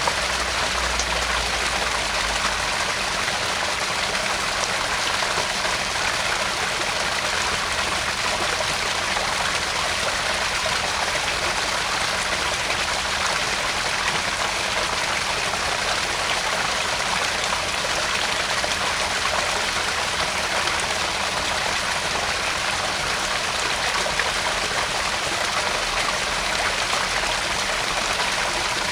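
Garden pond waterfall: water splashing and trickling steadily into a pond, an even, continuous rush.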